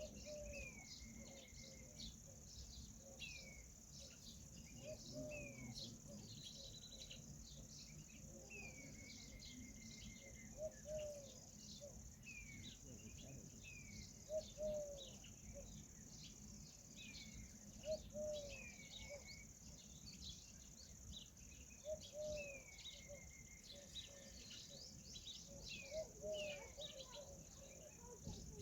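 Faint Indian peahen calls, short low notes repeating every few seconds. Under them runs a steady high-pitched cricket chorus, and higher descending whistled bird calls repeat about every two seconds.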